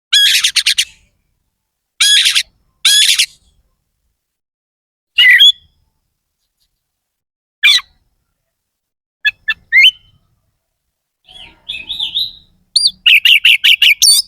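Oriental magpie-robin (kacer) singing loud, short phrases separated by pauses of a second or two, ending with a fast run of repeated notes near the end.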